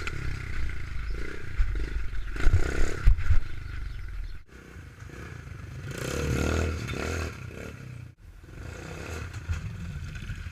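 Pit bike engine running, with clattering knocks and rumble; the sound cuts off abruptly twice.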